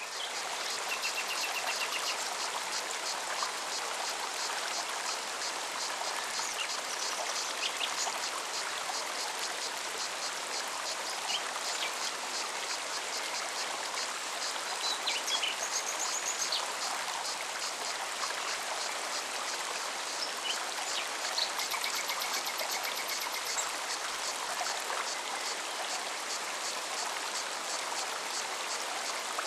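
Mountain forest stream running steadily over rocks, with birds chirping and trilling now and then. A cicada's fast pulsing song sits high above the water.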